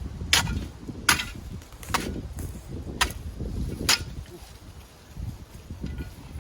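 Digging in a clay footer hole: a series of sharp, short strikes, about one a second, over a low rumble.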